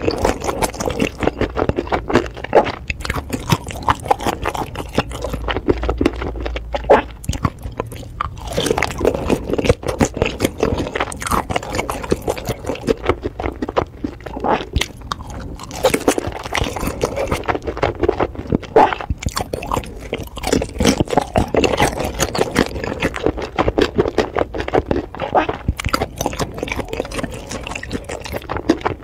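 Close-miked mouth sounds of chewing and biting pan-fried dumplings in spicy sauce: a dense, continuous run of quick wet clicks and smacks.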